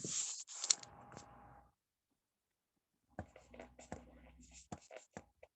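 Scratchy rustling and clicks, in two stretches with a quiet gap of about a second and a half between them.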